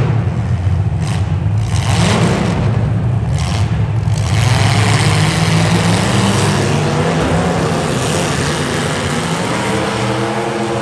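Demolition derby cars' engines running and revving, with a few brief knocks in the first few seconds.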